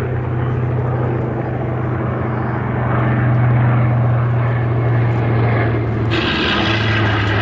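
Radial-engined propeller warbird flying past, a steady low drone of its piston engines that swells a little in the middle. A brighter rushing noise joins near the end.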